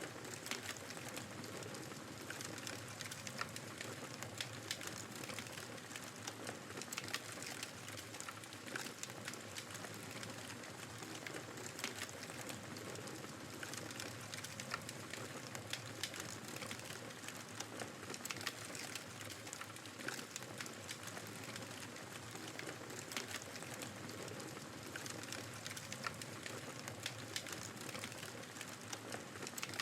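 Wood fire crackling, with frequent small sharp pops, over the steady rushing noise of snowstorm wind. The level holds even throughout, with no change or break.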